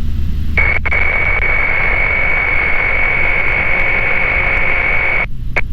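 Aviation radio over the headset: a keyed transmission with no voice, just loud static hiss and a steady high-pitched whistle. It starts about half a second in and cuts off suddenly near the end. The airplane's low engine drone runs underneath.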